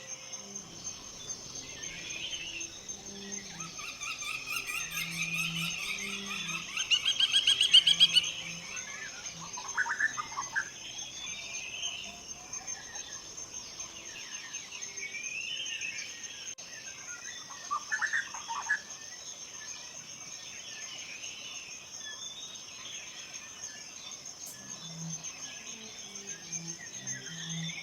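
Forest birds singing: a fast, rapidly repeated trill builds and becomes loudest about seven to eight seconds in. Shorter song phrases follow now and then, over a steady high-pitched insect-like hum.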